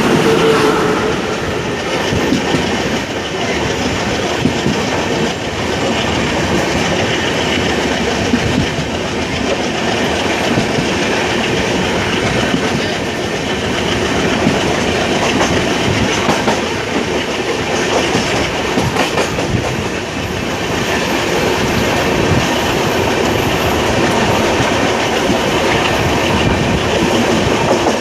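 Passenger train running: a steady rumble with the wheels clacking over rail joints.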